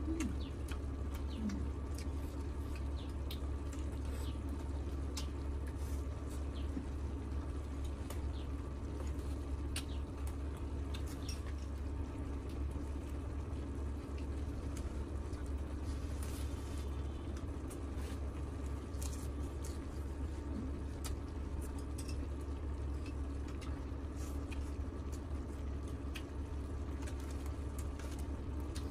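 Wet chewing and mouth sounds of people eating, with scattered small clicks throughout, over a steady low hum.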